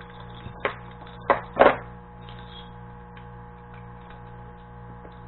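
Three short knocks of a metal chainsaw file-sharpening guide being handled and set in place, in the first two seconds, over a steady electrical hum.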